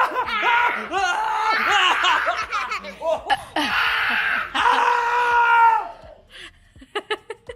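Young children laughing and shrieking in rough-and-tumble play, in high-pitched bursts that die down about six seconds in, followed by a few short taps.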